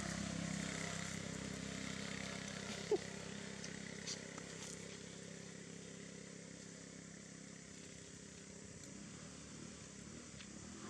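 A motor vehicle engine hums steadily and fades away over several seconds. There is one sharp click about three seconds in.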